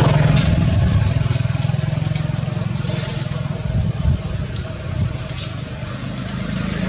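A motor vehicle engine running with a steady low rumble, easing slightly in the second half. Two short, high, dipping chirps sound over it, about two seconds in and again near five and a half seconds.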